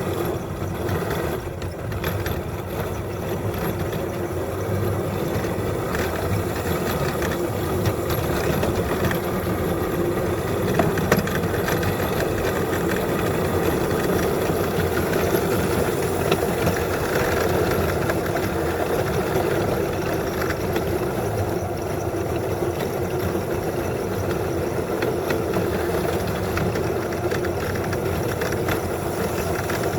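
Small locomotive's engine running steadily with a rattle as it travels along the track.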